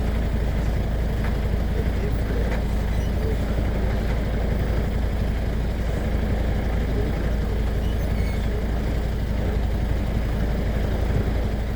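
Steady low rumble of a truck running, engine and road noise without a break.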